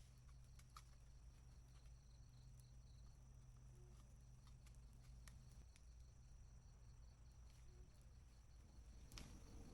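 Near silence: faint night ambience with an insect chirping in a steady, even pulse, and a few faint clicks from the wood campfire crackling.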